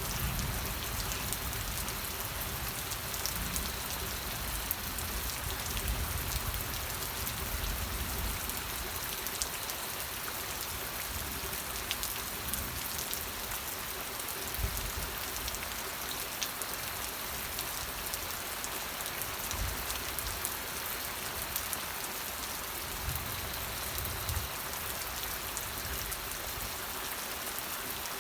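Steady rain falling, a dense even hiss with scattered sharper drops hitting a surface, and soft low rumbles coming and going.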